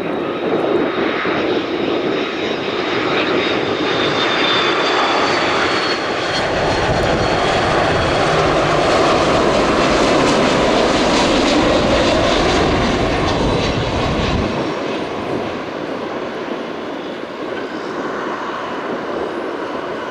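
Airbus A330-300 twin-engine jet airliner passing close by on final approach to land. The engine noise builds to a loud rumble about halfway through and then eases off, with a high whine that falls slightly in pitch early on.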